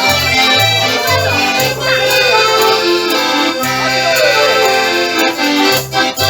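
Live band music with accordion, a moving bass line and a bouncy beat, played as an instrumental break between verses of a comic folk song. Near the end it changes to short, punchy chords about twice a second.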